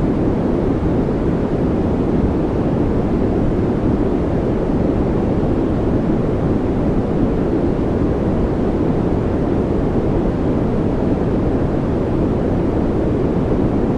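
Steady, unbroken white-noise track, weighted toward low pitches so it sounds like a deep, even rush.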